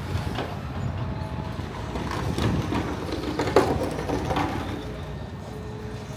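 Outdoor street background: a steady low rumble with a run of short knocks and clanks in the middle, the sharpest about three and a half seconds in.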